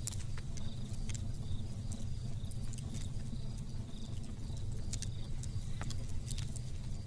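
Campfire crackling with scattered sharp pops over a steady low rumble, with crickets chirping in short repeated bursts.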